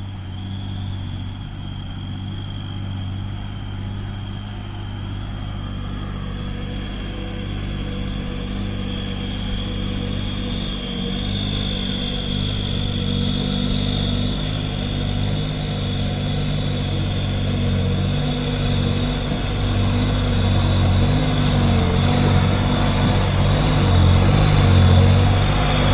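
Heavy truck's diesel engine labouring up a steep climb under load, with a steady high turbo whistle above the low engine drone. Both grow slowly louder as the truck works its way up.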